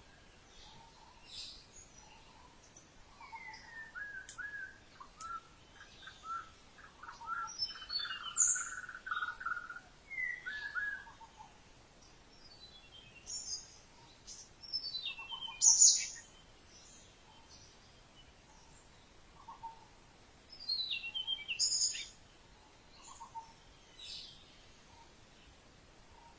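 Wild birds chirping and singing in separate bursts with short pauses between. A run of chirping notes comes in the first half, and quick, high, falling calls come near the middle and again near the end; the loudest is a sharp high call just past the middle.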